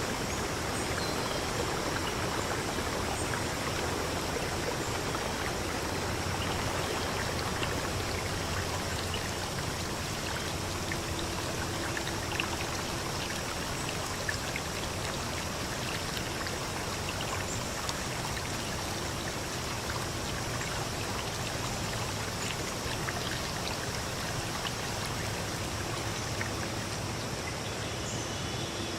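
A stream flowing steadily, an even rush of running water with small splashes and trickles.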